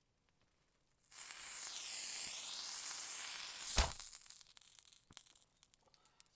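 A hissing, sizzling noise that starts about a second in and lasts about three seconds, ending in a single sharp thump.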